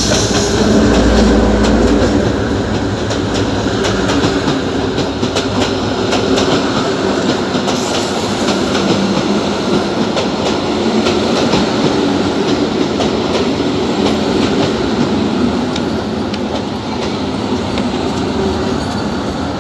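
Abu Qir line train running on the track, with a steady rumble and repeated clicks of the wheels over rail joints.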